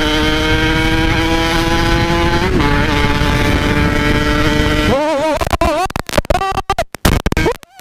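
Yamaha RX-King 135cc single-cylinder two-stroke engine running at a steady cruise, its pitch creeping slowly upward, through a stock-style packed aftermarket exhaust. About five seconds in the sound starts to waver and cut in and out in short dropouts.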